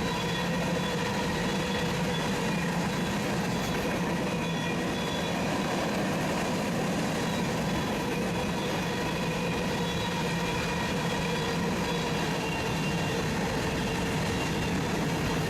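Freight train passing: a steady, even noise of the train's cars on the rails, with several faint steady tones held throughout.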